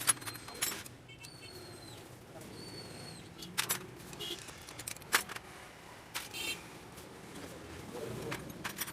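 Metal tools and engine parts clinking and knocking at irregular intervals, a few of the strikes ringing briefly. A bird chirps twice in the background.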